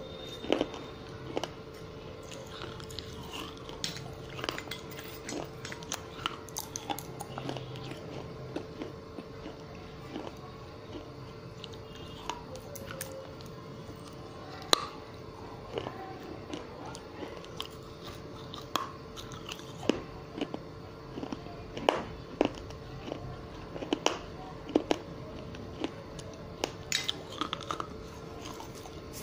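Close-up chewing of broken baked-clay diya pieces: irregular sharp crunches between quieter chewing, with louder crunches more frequent in the second half.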